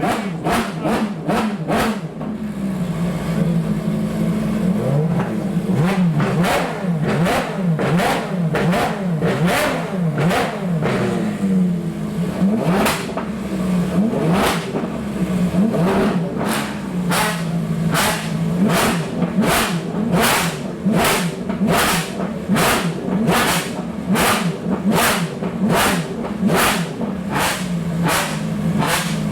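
Ferrari FXXK Evo V12 engine revving up and down at speed, under background music with a steady beat of about two strikes a second that drops out briefly a few seconds in.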